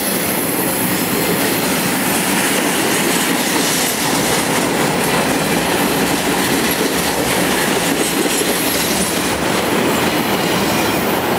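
BNSF intermodal freight train passing at close range, its flatcars loaded with truck trailers: a steady, loud rumble and rattle of steel wheels on the rail, with a run of clicks as the wheels cross the rail joints.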